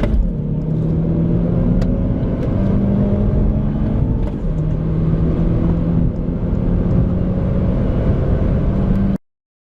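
Turbocharged hot hatchback accelerating hard, the engine note climbing slowly through a long pull. It cuts off suddenly near the end.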